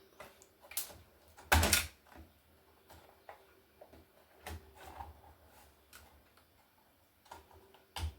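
Irregular clicks and knocks from a laptop being handled and taken apart while its screen cable is unplugged, the loudest a clattering knock about a second and a half in.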